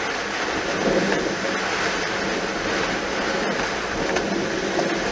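Steady rushing of water and rain noise as a car drives along a flooded road in typhoon rain.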